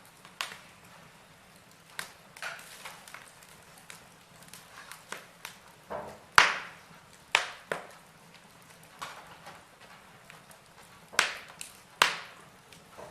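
Wood logs burning in a fireplace, crackling with irregular sharp pops and snaps over a faint hiss. The loudest pops come about halfway through and again near the end.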